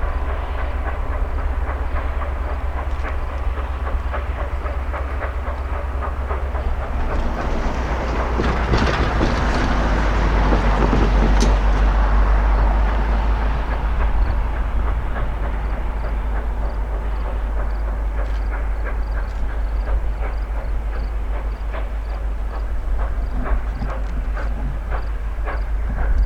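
Train of Georgia Northern 2-8-2 steam locomotive No. 105 running, wheels clicking over the rail joints over a steady low rumble, the sound swelling louder for several seconds in the middle.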